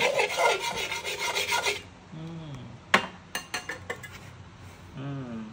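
A cooking utensil scraping and stirring in a pan for about two seconds, followed by a few sharp clicks and taps.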